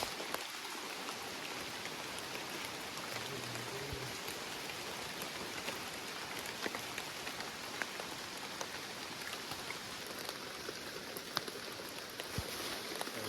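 Steady pattering hiss, like rain falling on leaves, with many small scattered ticks.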